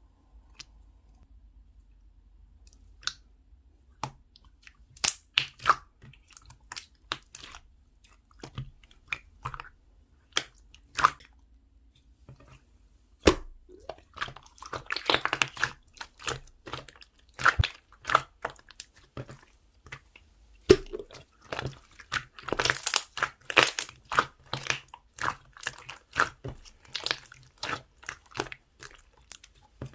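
Soothing-gel slime being squished and poked by hand, making irregular wet clicks and crackling pops. They begin after a few quiet seconds and come in thick crackly runs in the middle and near the end.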